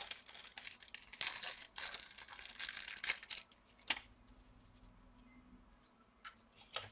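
Close rustling and crinkling from hands handling small laptop parts, with many small clicks, as a replacement power jack connector is tried for fit. A sharp click comes about four seconds in, then it goes quiet apart from a couple of light taps near the end.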